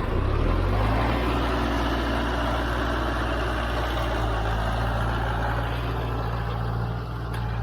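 Mahindra 4540 tractor's diesel engine, just started, its speed climbing briefly and then running steadily at idle.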